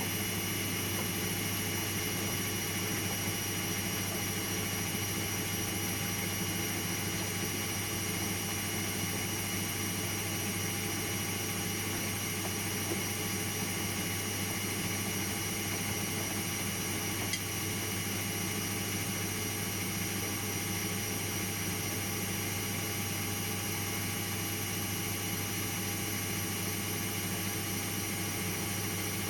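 Washing machine running steadily: a constant low hum with several steady whining tones above it.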